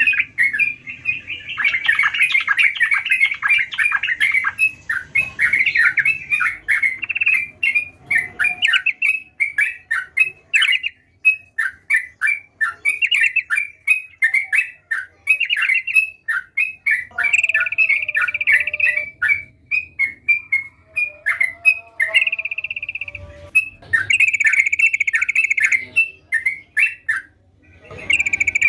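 Yellow-vented bulbul (trucukan) singing persistently: a loud, fast run of chattering, bubbling notes that goes on almost without a pause, broken only by a couple of brief gaps near the end.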